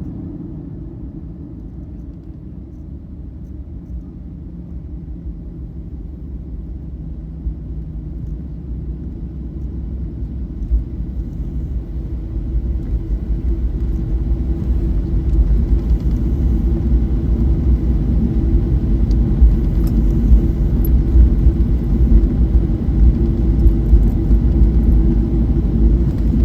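Boeing 737-800 cabin noise on landing: a deep rumble that builds over the first half and then holds loud, with small scattered knocks. This is the rollout after touchdown, with the CFM56 engines spooling up in reverse thrust.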